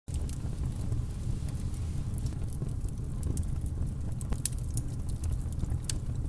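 Low, steady rumble with scattered faint crackles and clicks over it.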